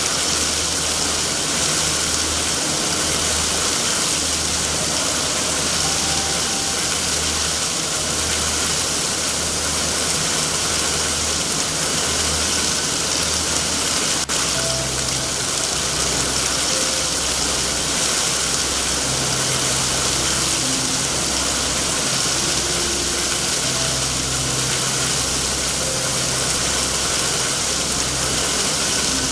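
Steady heavy rain over a continuous low rumble. A single sharp pop comes about halfway through.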